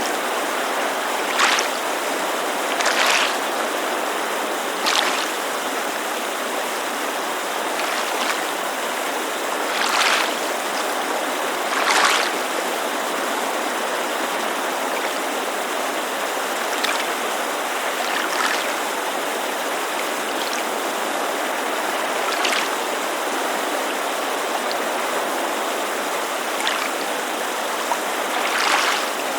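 Steady rushing of a creek, with small waves lapping at the shore in short splashes every few seconds, spaced unevenly.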